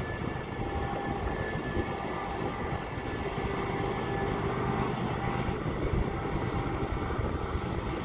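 Eastbound BNSF freight train's diesel locomotives running with a steady drone and a few held tones.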